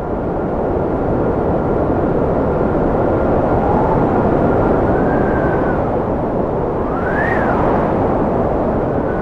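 Strong wind blowing in a steady rush, with whistling howls that rise and fall in pitch, the sharpest about seven seconds in.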